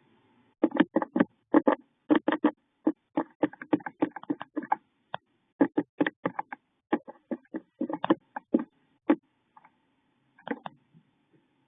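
A bird inside a wooden nest box making quick, irregular knocks and taps on the wood as it works on its nest, heard close up in the small enclosed box.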